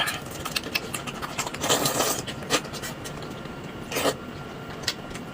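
Close-up eating noises from someone eating a roujiamo: chewing and mouth clicks, with a short burst of noise about two seconds in and another about four seconds in.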